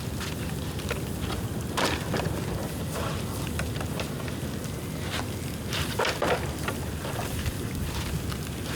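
Bonfire of dead, dry bamboo burning, with sharp crackles and pops at irregular moments over a steady low rumble of the fire.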